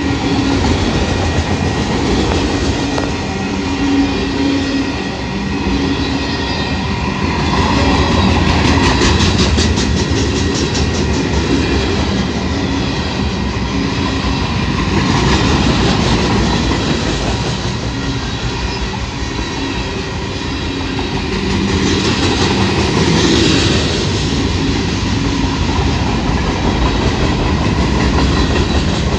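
Freight train of autorack, covered hopper and box cars rolling past close by: a steady rumble of steel wheels on rail, swelling and easing, with runs of rapid clicking as wheels cross the rail joints.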